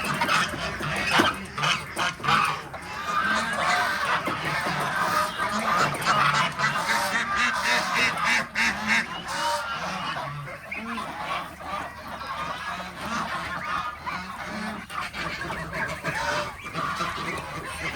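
A flock of geese honking, many calls overlapping without a break, with scattered sharp clicks among them.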